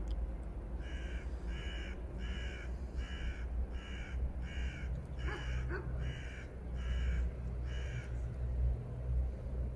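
A bird calling about eleven times in an even series, roughly one and a half calls a second, stopping a little after eight seconds, over a steady low rumble.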